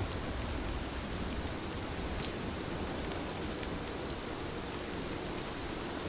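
Heavy rain falling steadily, with individual drops ticking through the even hiss of the downpour.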